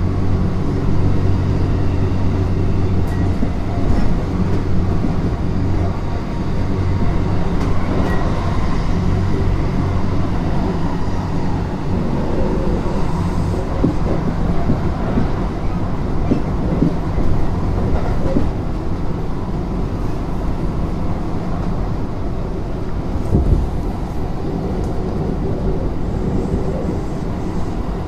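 Kintetsu 3200 series electric train running, heard from inside the car: a steady motor and rolling hum with a few scattered knocks from the track.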